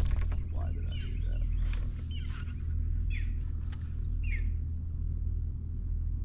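Birds chirping, with short calls and quick falling notes about every second, over a steady low rumble and a thin, steady high-pitched whine.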